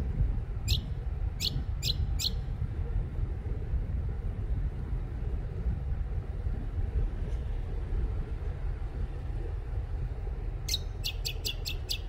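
A small bird giving sharp, high chirps that sweep downward, four spread over the first couple of seconds and then a quick run of about six near the end, over a steady low rumble.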